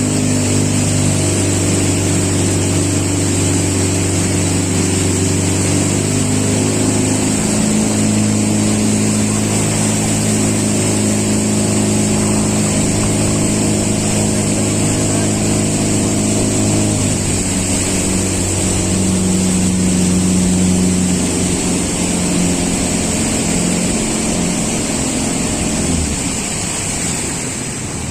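Motorboat engine running steadily under way, with a steady rush of wind and water. Its pitch shifts about two-thirds of the way through, then the engine eases off near the end.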